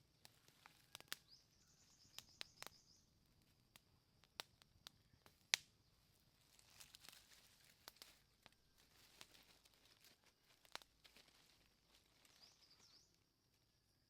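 Faint, scattered clicks and crackles, with one sharper click about halfway through, over a steady high thin tone; a bird chirps briefly twice.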